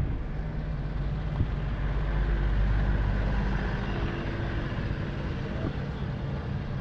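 Heavy truck's diesel engine running with a steady low rumble, swelling about two to three seconds in and then easing off.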